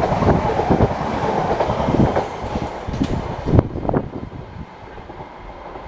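Class 458 Juniper electric multiple unit running past, its wheels clattering over rail joints. The clatter is loud at first and fades away over the first four seconds as the train draws off.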